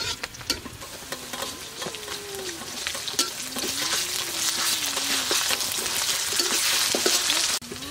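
Food frying in hot oil, stirred with a spatula: a sizzle with scattered scrapes and clicks. The sizzle grows louder through the second half and cuts off suddenly near the end.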